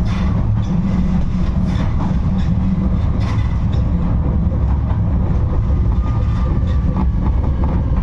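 71-628-02 tram running along the track: a steady low rumble with irregular clicks as the wheels pass over rail joints, and a faint thin whine near the end.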